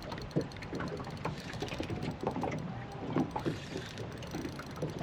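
Small boat on the water while a fish is fought on rod and reel: a wash of water and wind noise with irregular light clicks and knocks.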